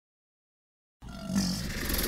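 About a second of dead silence, then a crocodile's low growl cuts in abruptly and carries on.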